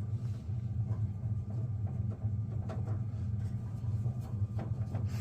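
A steady low mechanical hum with a few light clicks and knocks over it.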